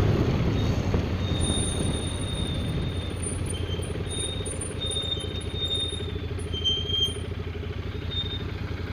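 Royal Enfield Continental GT650's 648 cc parallel-twin engine running steadily while riding, a fast even pulsing rumble, easing off slightly over the first couple of seconds.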